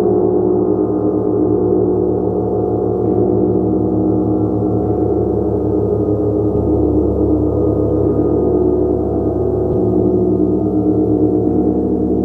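A gong played continuously, building a dense, sustained wash of many overlapping ringing tones. Its deep hum swells and shifts every few seconds while the overall loudness stays even.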